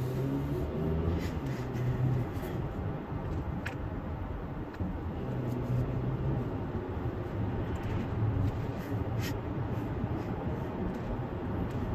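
Car interior while driving: a steady low engine and road rumble with a hum, and a few faint clicks.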